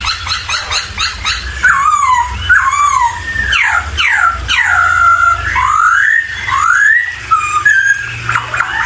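Poksay (laughingthrush) singing a run of loud whistled notes that sweep up and down one after another, over a steady low hum.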